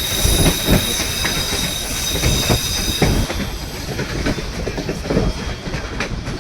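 White Pass & Yukon Route narrow-gauge train rolling along the track: a steady rumble with rail clicks and knocks, and a high wheel squeal that fades out about three seconds in.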